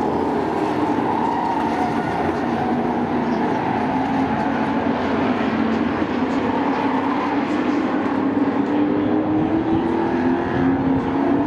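A field of short-track sport trucks racing around the oval, several engines running hard at once, their pitch slowly rising and falling as the trucks pass and circle.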